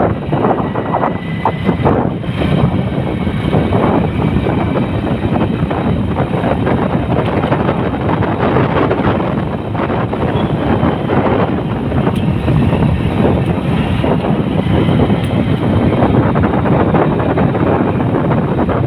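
Steady, loud rumble of a vehicle on the move, with wind buffeting the microphone.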